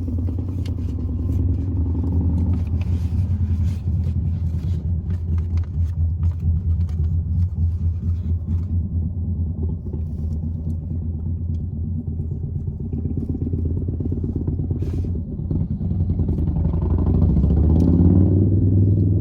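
Steady low rumble of a car heard from inside the cabin, with scattered light clicks and rustles over it; the rumble grows a little louder near the end.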